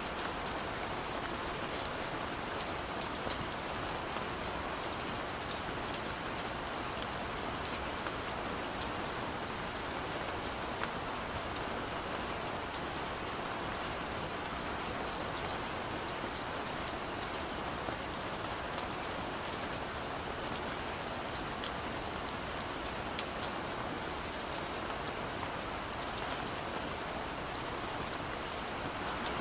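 Steady gentle rain falling, an even hiss with many small drop ticks scattered through it.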